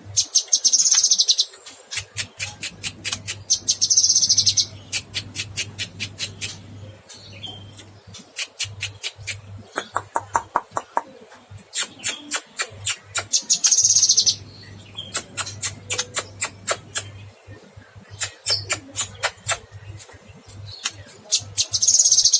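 Cucak kinoy bird singing energetically: phrases of rapid sharp repeated notes alternating with buzzy high trills, over a faint low hum.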